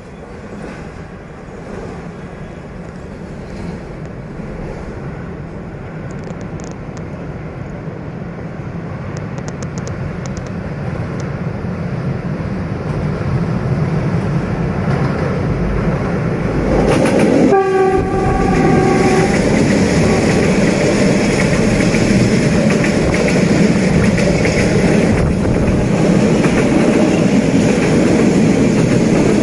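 Diesel-hauled passenger train approaching, its rumble growing steadily louder. A little past halfway the locomotive sounds its horn once, a single blast of about two seconds, and the loud rumble of the passing train carries on.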